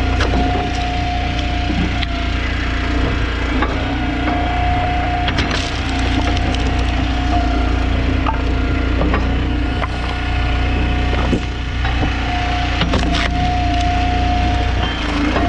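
An Eastonmade hydraulic log splitter runs under its steady engine drone. A steady whine comes and goes in stretches of a few seconds, and sharp cracks sound several times as wood splits.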